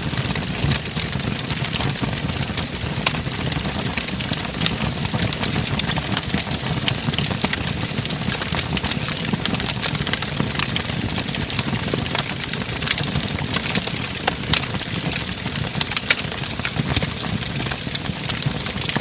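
Wood fire burning in a fireplace, crackling steadily: frequent sharp pops and snaps over a low, constant rumble of the flames.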